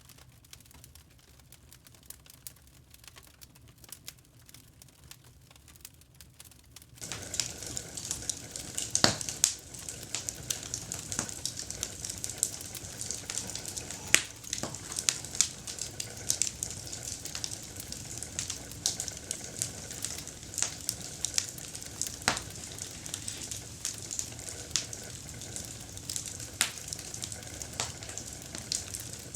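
Campfire crackling with sharp pops of burning wood. It is faint for the first seven seconds or so, then turns suddenly louder, with a steady hiss under frequent loud pops.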